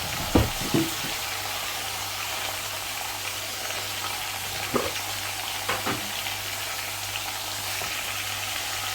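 Onions and ginger-garlic paste frying in oil in a pan on low heat, a steady sizzle, with a few knocks of a stirring spoon against the pan: two near the start and two more around the middle.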